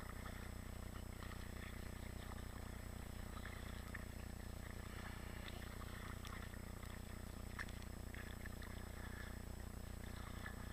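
Kayak paddling on calm water: paddle blades dipping, with light splashes, drips and small knocks scattered over a steady low hum.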